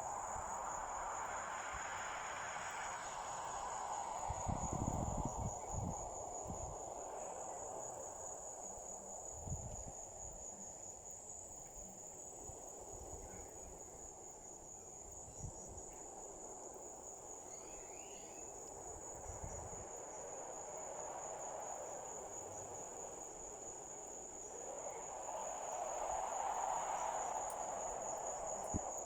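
Crickets trilling in a steady, high-pitched, finely pulsing chorus. A soft hiss underneath swells near the start and again near the end, with a few low bumps about five seconds in.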